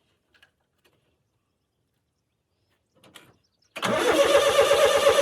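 International Harvester 574 tractor engine cranking on its starter: a loud, fast, even chugging that begins suddenly about three-quarters of the way through, after near silence.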